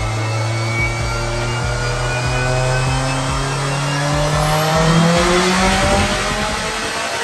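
2019 Subaru WRX STI's turbocharged flat-four engine pulling at full throttle on a chassis dyno, its note rising steadily in pitch for about five seconds, then levelling off and fading before cutting off suddenly near the end.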